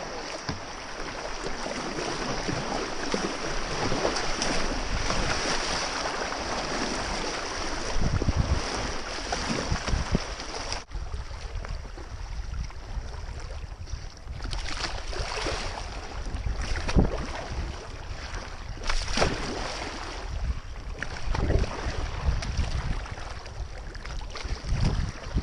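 Rushing whitewater around a kayak. About 11 seconds in it breaks off sharply to calmer water, with intermittent paddle splashes and wind buffeting the microphone.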